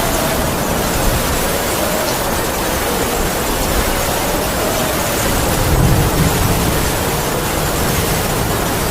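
Heavy rain falling steadily with wind howling, a faint wavering whistle that slowly sinks in pitch. A brief low rumble about six seconds in.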